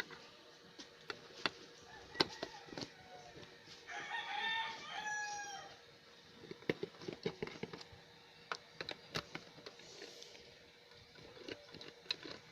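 A rooster crows once, about four seconds in, for roughly two seconds, over scattered small clicks and taps of hand work on a small plastic Bluetooth speaker's casing as it is being opened.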